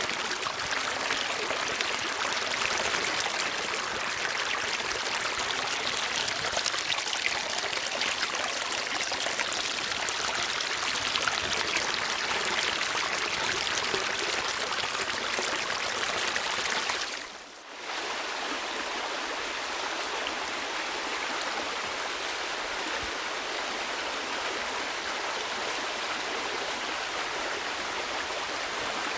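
Steady rushing of flowing water, like a stream. About 17 seconds in it fades out for a moment and returns a little quieter.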